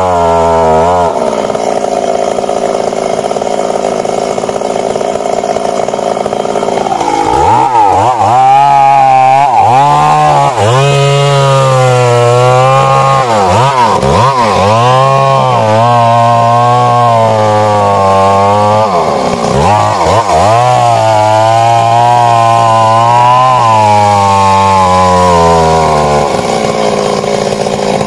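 Stihl MS 382 two-stroke chainsaw running at high revs: steady for the first several seconds, then its pitch repeatedly dips and climbs as the chain works through the wood of a large tree.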